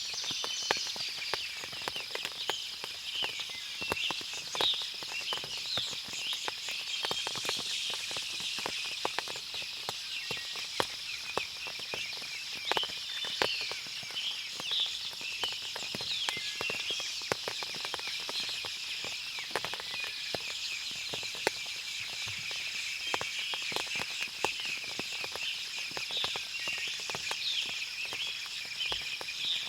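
Forest ambience after rain: many small birds chirping and calling at once, with irregular sharp ticks of water dripping from the trees, over a steady high hum.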